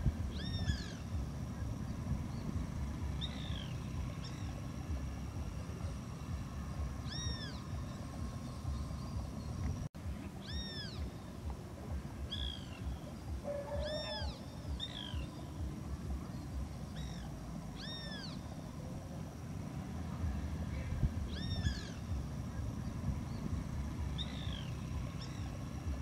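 Birds giving short mewing calls, each a quick rise and fall in pitch, repeated every second or two over a steady low rumble.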